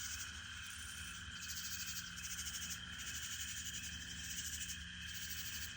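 Nighttime chorus of frogs and insects: a steady trilling, with a higher buzzing that comes and goes in spells of about a second.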